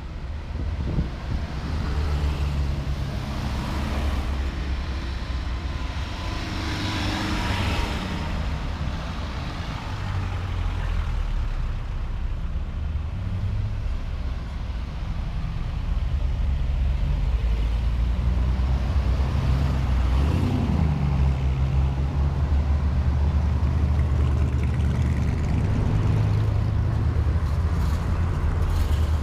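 Classic car engines running, with cars driving by; a steady low engine hum, a hiss of a vehicle passing around seven seconds in, and a short change in engine pitch about twenty seconds in.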